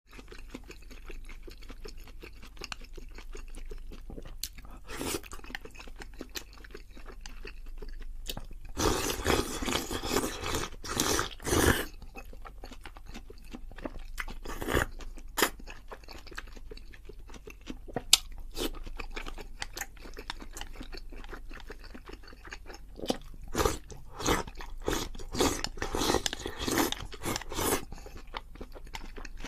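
A person chewing and crunching crunchy food close to the microphone, with many short crunches and two longer, louder stretches of dense crunching, one about a third of the way in and one near the end.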